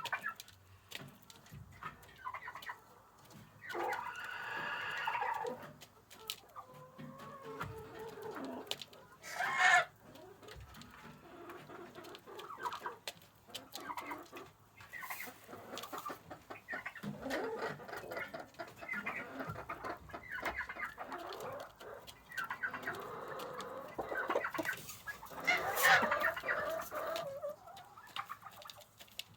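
Chickens clucking and calling around feed, several birds at once, with louder drawn-out calls a few seconds in, about ten seconds in and near the end.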